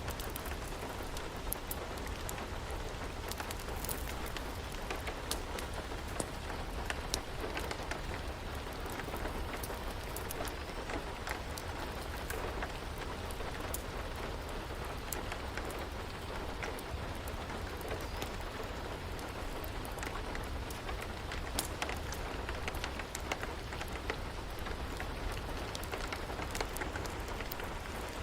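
Steady rain, a continuous even hiss, with scattered sharp crackles and pops from a wood fire.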